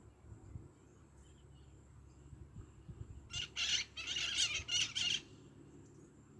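A bird giving a short run of five or six harsh, rasping calls in quick succession, lasting about two seconds, starting a little past the middle.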